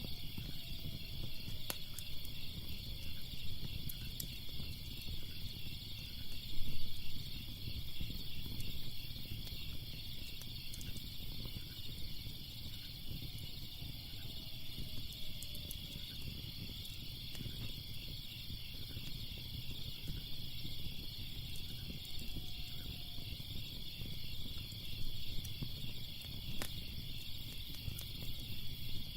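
Steady chorus of crickets chirping, over the low noise of a fire burning, with scattered sharp crackles and pops from the fire.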